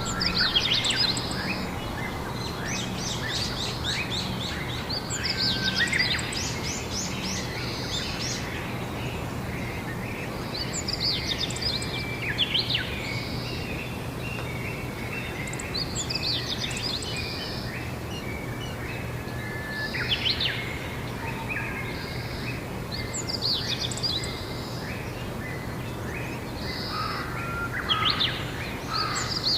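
Songbirds singing outdoors: short trilled song phrases repeat every four seconds or so over a steady background of outdoor noise and a low hum.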